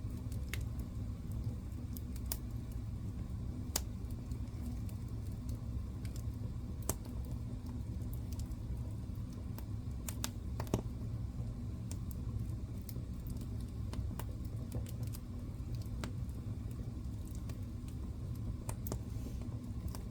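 Wood fire burning in a fireplace: a steady low rumble with irregular sharp crackles and pops, the loudest about eleven seconds in.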